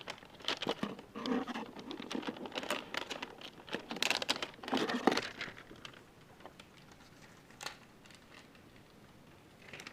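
Clear plastic wrap on a trading-card hanger box crinkling and tearing as it is pulled off, in a dense run of crackles for about five seconds, then only a few faint ticks.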